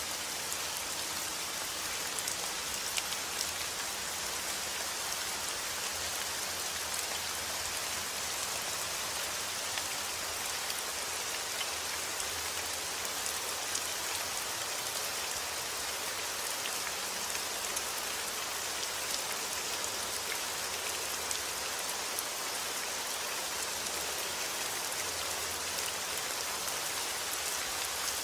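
Heavy rain falling steadily outdoors: an even hiss with many small drop ticks spattering on surfaces.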